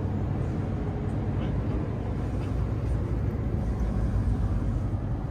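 Running noise inside the passenger cabin of a JR Central HC85 series diesel-electric hybrid train under way: a steady low rumble with a low hum and faint light ticks.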